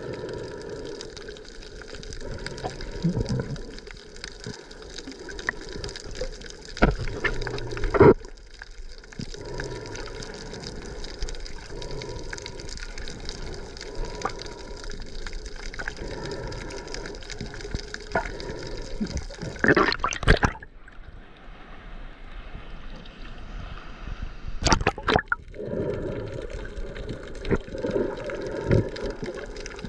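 Waterfall rushing steadily. A few loud bumps on the microphone break in about a third of the way through, around two-thirds of the way through and again shortly after.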